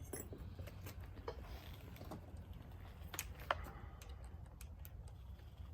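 A few faint, scattered light clicks and taps over a low steady hum, the sharpest click about three and a half seconds in.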